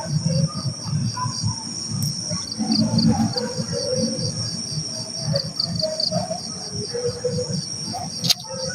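Night insect chorus of crickets: steady high-pitched trills with one chirping about three times a second, over an uneven low rumbling noise, and a single sharp click near the end.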